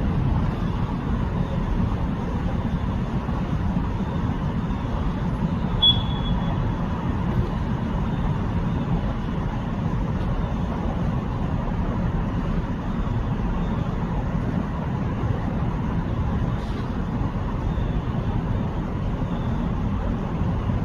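Steady low rumbling background noise, with a brief high chirp about six seconds in.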